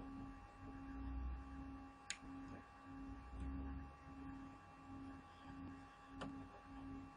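Faint low tone pulsing about one and a half times a second over a few steady faint tones, with two brief clicks.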